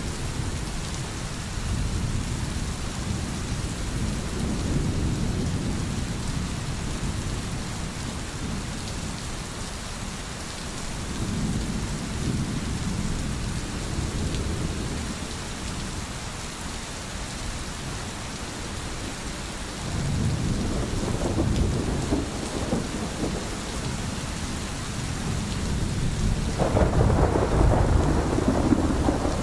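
Steady heavy rain hissing under rolling thunder: low rumbles swell and fade about every eight to ten seconds, with the loudest, crackling peal near the end.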